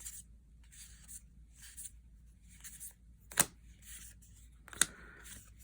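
Soft rustling of trading cards being handled and flipped through by hand, with two sharp clicks, one about three and a half seconds in and one near five seconds.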